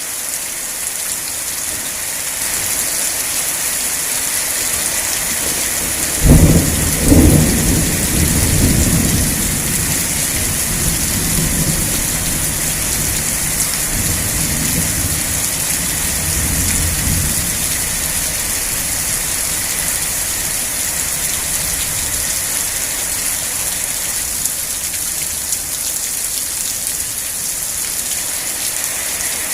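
Steady rain falling, a continuous hiss. About six seconds in, a thunderclap comes in: two sharp cracks close together, then a low rumble that dies away over about ten seconds.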